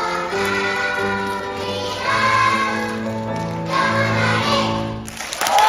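A choir sings the closing phrases of a piece in several-part harmony, with long held notes that stop about five seconds in. Cheering and clapping break out right at the end.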